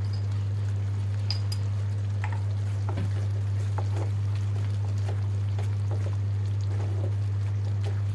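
Thick curry gravy bubbling in a pan, with scattered small pops, over a steady low hum.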